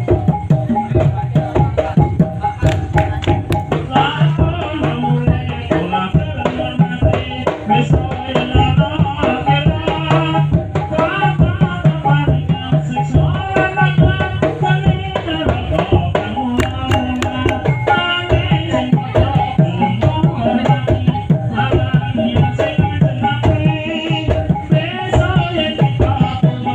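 Topeng Ireng dance accompaniment played loud: hand drums beat a busy, steady rhythm under a changing melodic line.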